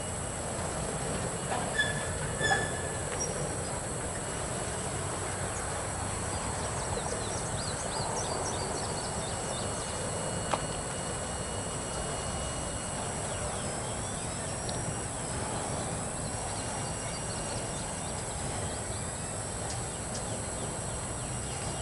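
Double-stack freight cars rolling over the rails in a steady rumble, with a few short high wheel squeals about two seconds in and a single sharp click partway through.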